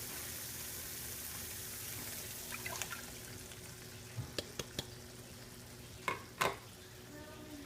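Butter-and-cream tomato sauce sizzling faintly in a pan while a spoon stirs it, with several light clinks of the spoon against the pan; the two loudest clinks come near the end.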